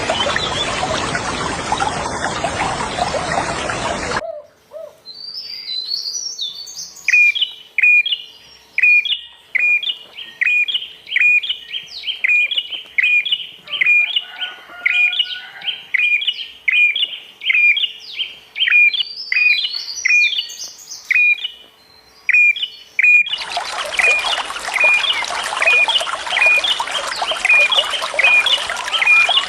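Steady running water that cuts off suddenly about four seconds in, leaving a bird calling a regular series of short, sharp notes, about one and a half a second, with a few higher chirps mixed in. Near the end the water noise comes back just as suddenly under the continuing calls.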